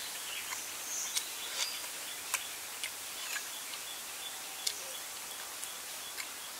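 Eating sounds from a man chewing grilled chicken: scattered short wet clicks and smacks, about half a dozen, over a steady high hiss of forest background with insects.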